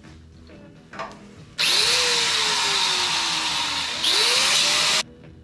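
A power tool run in two bursts: its motor spins up, slowly slows as it bites into the work, and spins up again before cutting off sharply.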